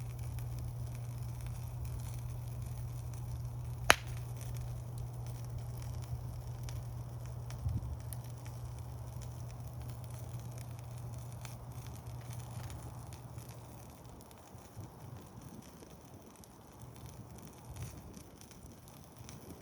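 Wood campfire burning, with scattered crackles and one loud, sharp pop about four seconds in and a couple of smaller pops near the middle. A low steady hum underneath fades out about two-thirds of the way through.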